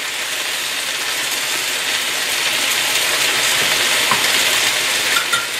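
Chicken and vegetables sizzling in a hot wok over a high gas flame: a steady frying hiss that grows a little louder partway through.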